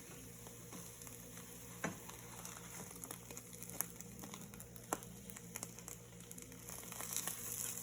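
Food sizzling in a frying pan: a steady hiss that grows a little louder near the end. A few light clicks are heard about two, four and five seconds in.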